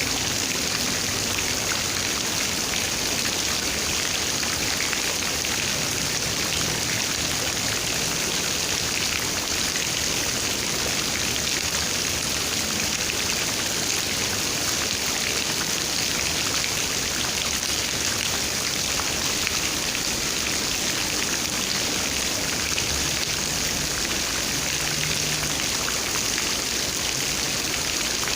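Steady rainfall, raindrops pattering on a surface.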